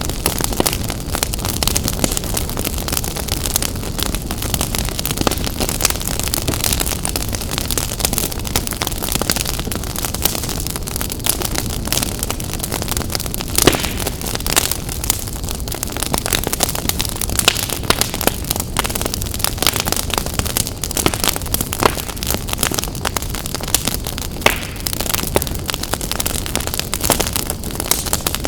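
Wood fire in a fireplace crackling steadily: dense rapid pops and snaps over a constant low rumble of the flames, with one louder pop about halfway through.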